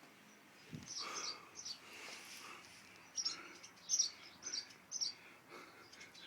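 Birds giving short, high, repeated alarm calls while mobbing an intruder near their nest, the calls coming in quick bunches about a second in and again from about halfway on. A single soft low knock sounds just under a second in.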